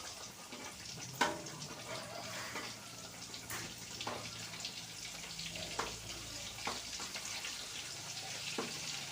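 Food frying with a steady sizzle, with a few short knocks of a utensil or cookware; the loudest knock comes about a second in.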